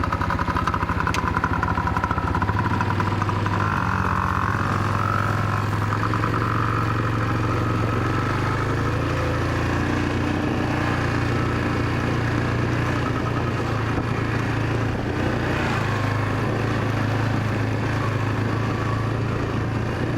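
Small dirt bike engine running steadily. Its note shifts about two and a half seconds in, then holds at a fairly even pitch.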